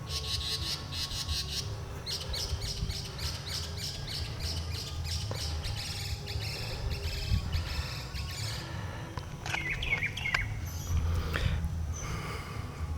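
Northern mockingbird singing: a fast run of repeated high chirping notes, then, about two-thirds of the way in, a few quick sweeping notes as it switches to a new phrase.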